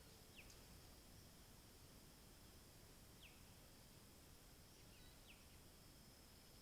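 Near silence outdoors, with a faint steady high-pitched tone and three faint, short, falling whistled notes spaced a few seconds apart, typical of a bird calling.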